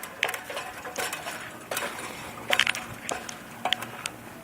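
Scattered light metallic clinks and clicks, irregular, a few of them ringing briefly, from small metal items knocking together.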